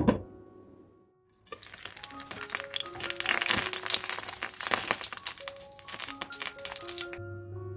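Grated-potato and egg fritters frying in oil in a nonstick pan, a dense sizzle with many small pops and crackles, as a wooden spatula slides under them; a sharp knock at the very start as the glass pan lid is lifted. The frying stops near the end, leaving soft background music.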